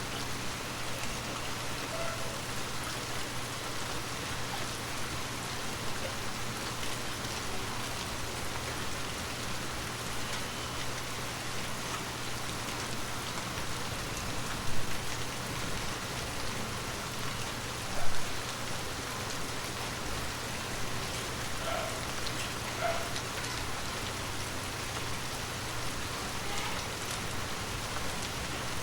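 Heavy rain falling steadily: an even hiss with scattered individual drop impacts, and two louder drips or splashes about halfway through.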